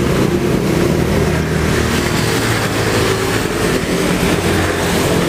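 A motor vehicle engine running steadily, a continuous drone with traffic-like noise over it.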